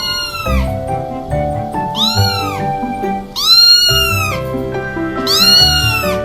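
Domestic cat meowing four times, each meow rising then falling in pitch, over background music.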